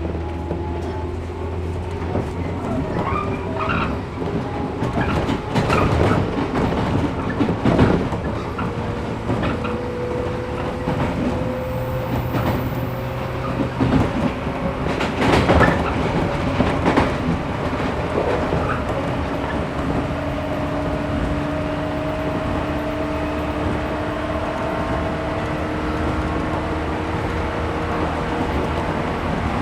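Interior running sound of a 113 series resistance-controlled electric multiple unit. The traction motor hum rises slowly in pitch as the train gathers speed, over steady wheel-and-rail rumble. Clusters of clacks and knocks from the wheels over rail joints come a few seconds in and again about halfway through.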